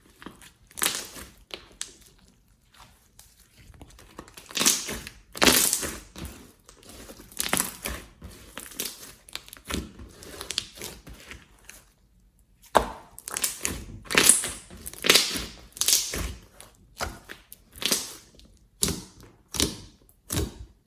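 Slime being squeezed, pressed and stretched by hand, making irregular crackling, crinkling squelches in uneven bursts, with a short pause about twelve seconds in.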